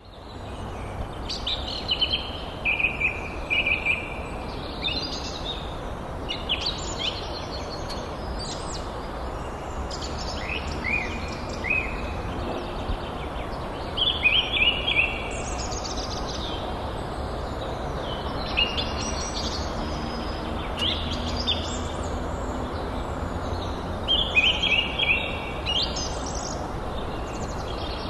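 Birds chirping and singing in repeated short high calls, over a steady outdoor background noise.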